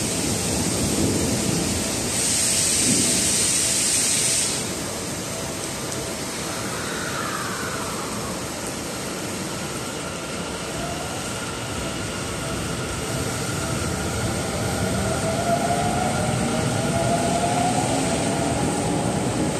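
Electric commuter train at a station, its traction motors whining and slowly rising in pitch as it gathers speed, over the steady noise of heavy rain. A loud hiss lasts a couple of seconds near the start.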